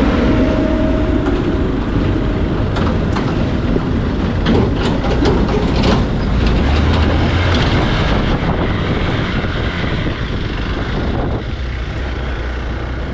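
Motorcycle running along a rough dirt road, its engine rumble mixed with loud wind noise on the microphone and scattered rattles and knocks from bumps. It gets a little quieter near the end.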